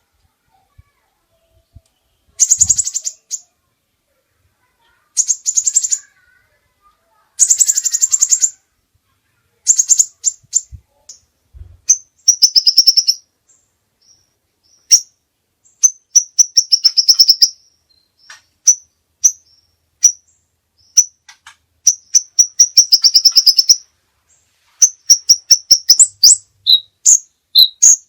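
A competition songbird singing high and loud: buzzy, rattling trill phrases about a second long with short pauses between. About ten seconds in, the song turns into a busier run of varied chirps and whistled notes, quickening into rapid short calls near the end.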